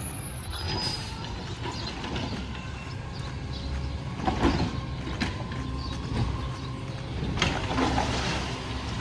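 Garbage truck engine running with a steady low rumble, with a few short metallic clanks and bangs, the loudest about halfway through.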